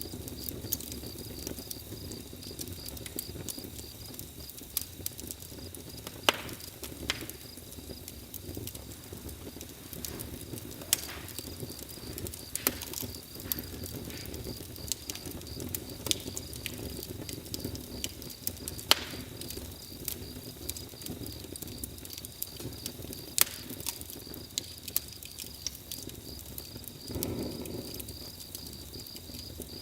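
Campfire burning: irregular sharp crackles and pops over a low steady rush of flames, with a brief louder swell near the end. A steady high insect trill, like crickets, runs underneath.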